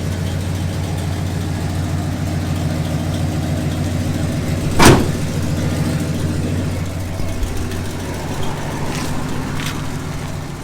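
Pontiac 421 V8 idling steadily while warming up after a cold start. About halfway through a single loud thump cuts across it, and two faint clicks follow near the end.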